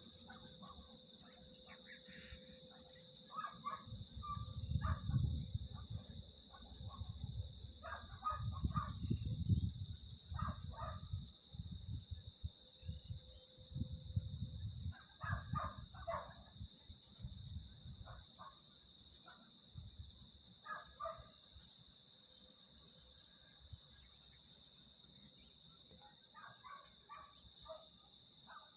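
A steady, high-pitched chorus of insects runs throughout, with short clusters of bird calls every few seconds. A low rumble comes and goes in the first half, loudest about five and nine seconds in.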